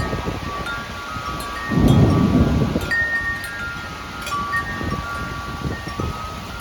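Wind chimes ringing irregularly in gusty wind, many overlapping tones struck at random moments. A strong low rush of wind swells about two seconds in and is the loudest part.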